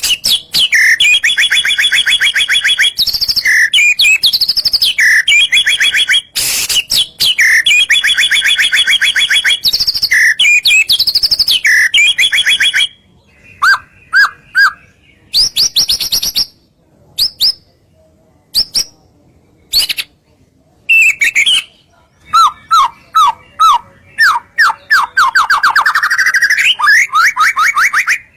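White-rumped shama (murai batu) singing loudly: long fast runs of rapidly repeated notes, then sparser sharp whistled notes with short pauses, then another fast run of notes that climbs in pitch near the end.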